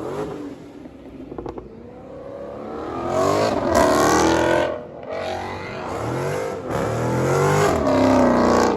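Car engine revved hard, its pitch climbing and falling again and again, loudest in the second half with a brief dip about five seconds in.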